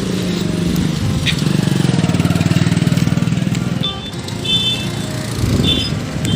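Road traffic: a motor vehicle's engine passing close, then a vehicle horn sounding several short beeps from about four seconds in.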